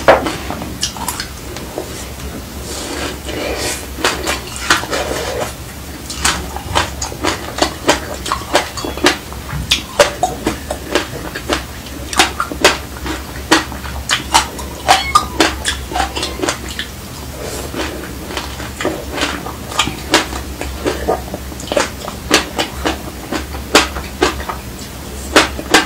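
Close-miked chewing of a mouthful of sesame seeds: a run of crisp, irregular crunching clicks, several a second, over a low steady hum.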